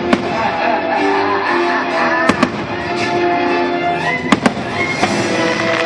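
Aerial fireworks bursting over music: one sharp bang just after the start, then two quick pairs of bangs about two seconds apart, with steady music playing throughout.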